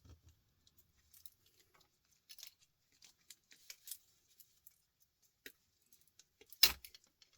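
Wire cutters snipping wires off a small electronic component: scattered light clicks of handling, then one sharp snip about two-thirds of the way through.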